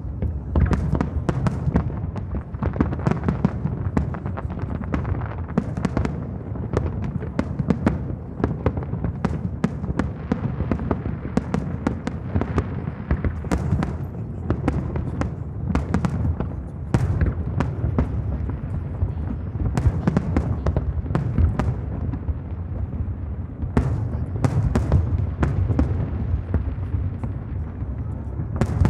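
Aerial fireworks exploding in quick succession: dense, irregular sharp cracks and bangs over a continuous low rumble of booming shells echoing across the harbour.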